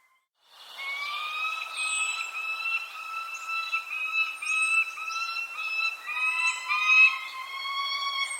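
Bird calls: a continuous run of short, slightly rising whistled notes, with a second caller joining at a slightly lower pitch about six seconds in and brief high chirps from other birds behind.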